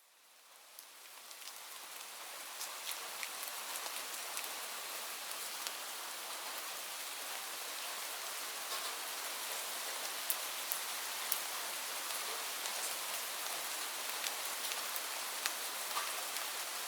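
Steady rain falling, fading in over the first couple of seconds from silence, with scattered sharper drop ticks over an even hiss.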